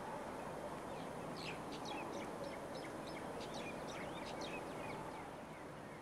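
Small birds chirping: a quick run of short, high, falling notes for a few seconds, over a steady low outdoor background noise.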